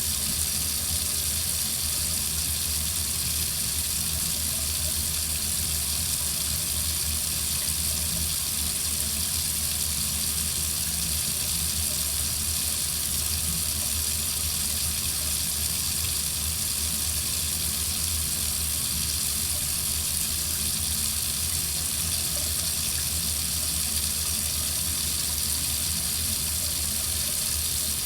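Water running steadily from a faucet into a sink, an even rushing hiss that does not change.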